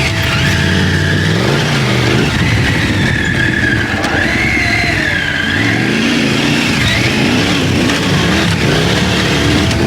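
Triumph Tiger 900 Rally Pro's three-cylinder engine pulling on the move, its pitch rising and falling with the throttle, over a steady rushing noise of the ride.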